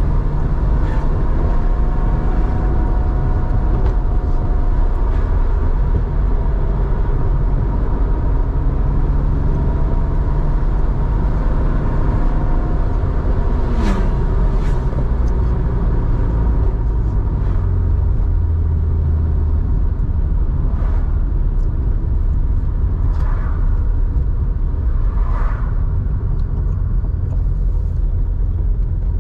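Air-cooled flat-six of a 1987 Porsche 911 3.4, breathing through a 2-in-1-out muffler, running steadily with a deep rumble while driving. Its note drops in pitch about halfway through.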